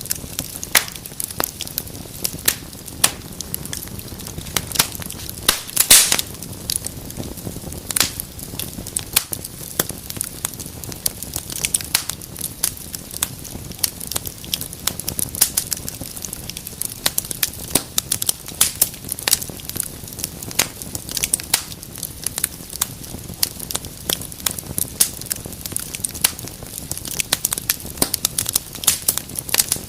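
Wood fire burning in a fireplace: a steady low hiss of flames under frequent sharp crackles and pops, with a louder burst of pops about six seconds in.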